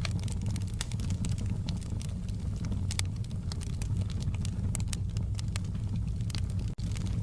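Wood fire burning in a fireplace: a steady low rumble with frequent, irregular sharp crackles and pops from the burning logs. The sound cuts out for an instant near the end.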